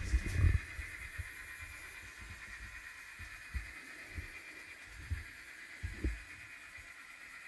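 Model train running on a layout track, a faint steady motor whine with light hiss, broken by a few low thumps at the start and about five and six seconds in.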